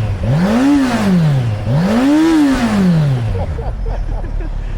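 Kawasaki motorcycle engine revved twice in quick succession, the pitch climbing and falling back with each twist of the throttle, then settling to idle.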